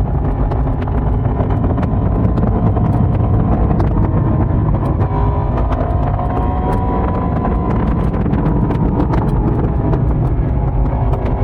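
Yamaha YZF-R1 (2022) crossplane inline-four engine and exhaust running while riding, its pitch rising a little around the middle, heard through a pocket-worn microphone with wind noise.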